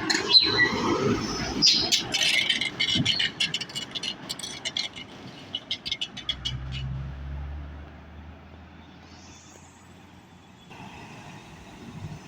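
Passing traffic: a dense run of sharp clicks and rattles for the first six seconds or so. A low engine hum follows and fades out near the end.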